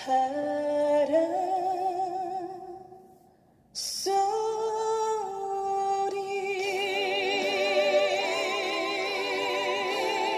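A woman singing a slow Korean trot ballad with music, holding long notes with wide vibrato. The phrase fades out about two and a half seconds in, and a new phrase comes in at full level at about four seconds.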